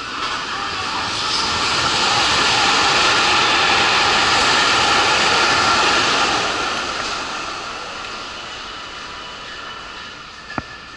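A Hanshin Railway train running through the elevated station: a loud rushing of wheels and motors that swells over about two seconds, holds for a few seconds, then slowly fades away. A single sharp click comes near the end.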